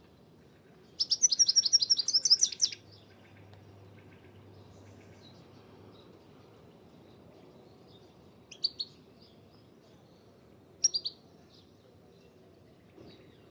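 Small songbird singing: a fast run of about a dozen high chirping notes lasting under two seconds, then two short high calls later on.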